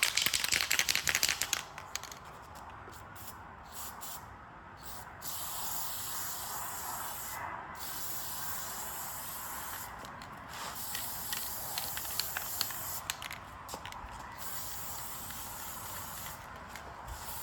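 Aerosol can of satin black spray paint: a rapid rattle for the first two seconds as the can is shaken, then spraying in a series of hissing bursts with short pauses between passes.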